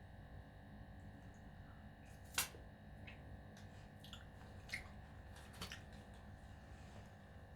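Eating sounds: a few short, sharp crunches or crackles from someone eating and handling food, the loudest about two and a half seconds in, over a faint steady hum.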